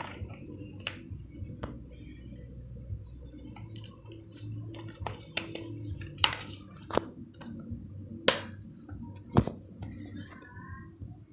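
Parts of a Doona Liki folding tricycle clicking and knocking as it is taken apart by hand: scattered sharp clicks, with two louder knocks in the last third.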